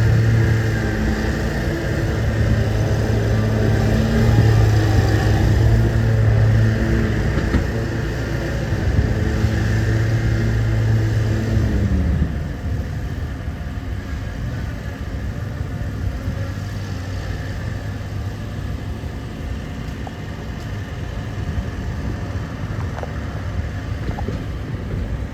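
Diesel engine of a CSX freight locomotive running with a steady low hum, which drops in pitch and falls quieter about twelve seconds in, leaving a lower rumble.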